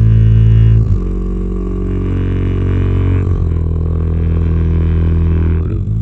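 A low, droning chord of held notes with many overtones, shifting to a new pitch about every two and a half seconds.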